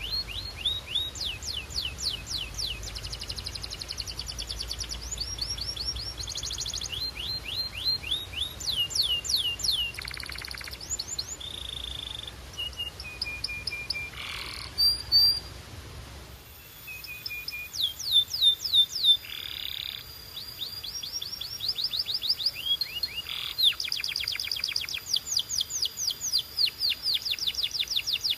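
Canary singing: fast trills of repeated downward-sweeping notes, broken by a few short held whistled tones.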